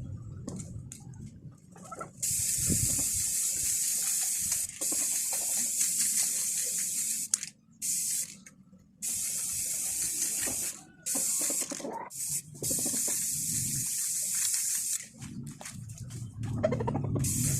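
Spray paint hissing out in about four long bursts, each two to four seconds, with short pauses between: a fresh coat of paint going onto a newly welded steel bracket.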